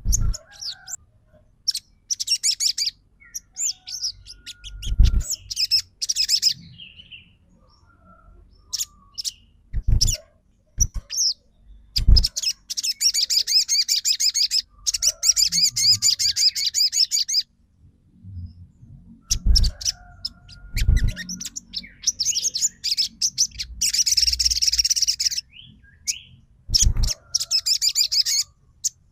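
Sogon songbird singing in bursts of fast, high chattering trills with single call notes between them, two long runs of chatter standing out. A few short low thumps are mixed in.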